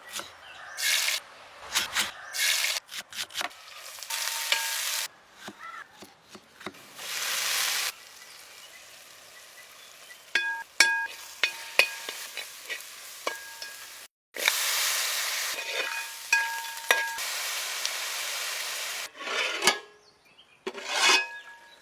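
Fish frying in a metal pan, sizzling in bursts. A metal spoon stirs and clinks against the pan, with short ringing taps.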